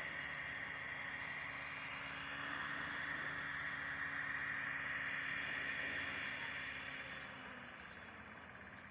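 Align T-REX 500X electric RC helicopter running: a steady high whine from its motor and drive over the rotor noise, dropping in level and fading in the last couple of seconds.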